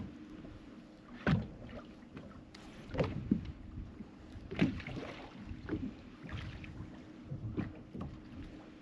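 Water slapping and splashing against a boat's hull in irregular strokes every second or so, over a faint steady hum.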